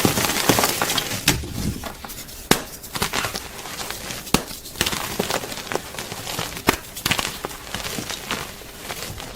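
Gym chalk being crunched and broken up: irregular sharp snaps over a continuous crackling, crumbling texture.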